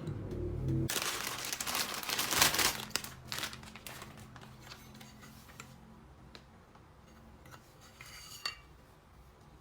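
Small metal engine parts being handled, clicking and clinking, after a loud rustling noise of about two seconds near the start.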